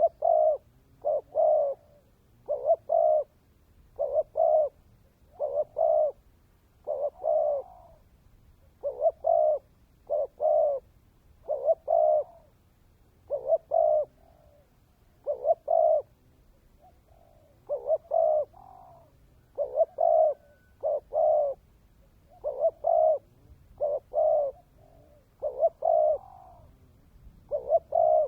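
Spotted dove (chim cu gáy) cooing over and over in short paired notes, phrase after phrase at an even pace. It is a decoy bird's song (cu mồi), the kind used to call in and provoke male doves.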